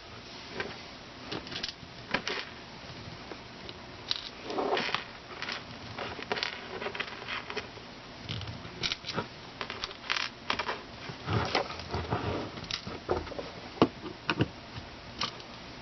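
Hands working small parts on an air pump's plastic housing: irregular clicks, taps and soft rustles as wires are pushed in and pieces are fitted together.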